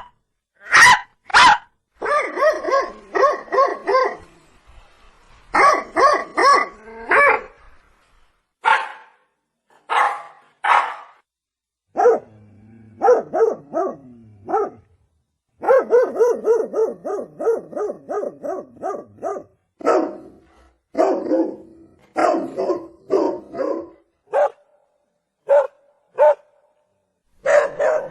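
Domestic dog barking in runs of quick barks with short pauses between them, now and then a single higher bark or yip.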